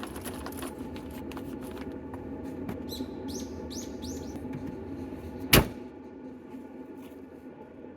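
A van's engine running steadily with small rattling clicks, a few bird chirps a little past the middle, and one loud thump about five and a half seconds in.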